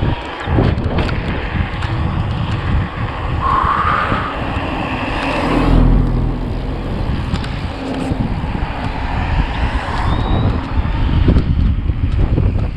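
Strong wind buffeting the microphone while riding, a heavy rumbling noise that surges and drops, with a brief rising whine about three and a half seconds in.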